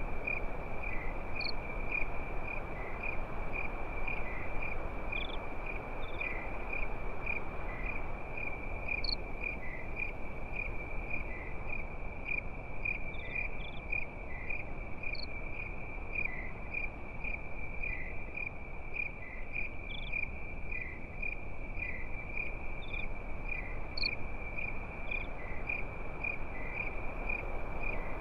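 Crickets chirping steadily in an even, pulsing rhythm of about two chirps a second, over the soft hiss of a campfire with a few faint pops.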